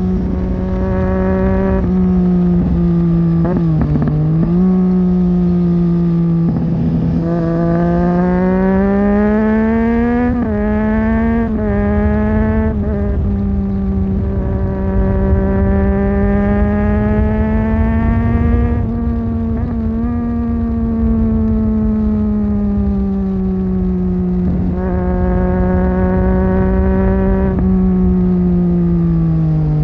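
2009 Triumph Street Triple 675's three-cylinder engine running through a Leovince 3-2 exhaust with dB killer, heard from on the bike while riding. The engine note rises and falls with the throttle, broken by several brief dips that sound like gear changes, over a low noisy rumble.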